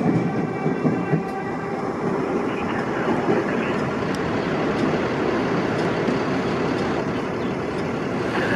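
New York City Subway train running past on the rails: a steady rumble and wheel noise, with a faint high whine that fades out in the first two seconds.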